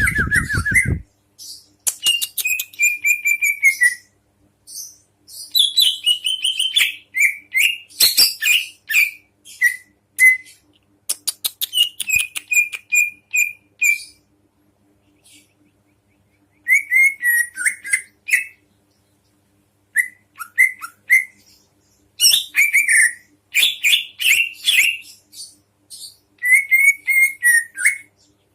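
A songbird singing in bursts of whistled phrases and fast chattering trills, with short pauses between phrases. A faint steady hum runs underneath.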